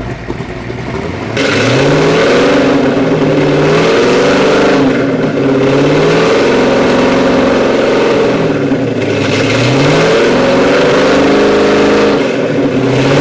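Kiekhaefer 482 ci V8 race-boat engine revved up from idle about a second in and held at a raised speed, around the announced 3,000 rpm shot, its pitch wavering up and down as the throttle is held unevenly. The engine is held at speed so its ignition timing can be checked at full advance.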